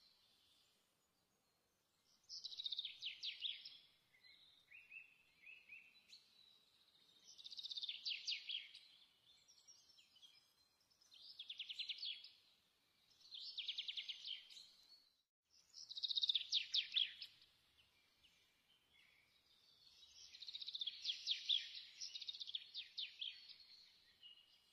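A songbird singing a string of rapid, high trilled phrases, each lasting one to three seconds, with short pauses between them.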